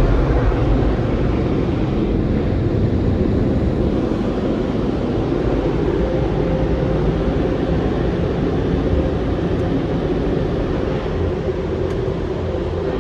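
Car wash tunnel equipment running with a loud, steady roar, easing off slightly toward the end.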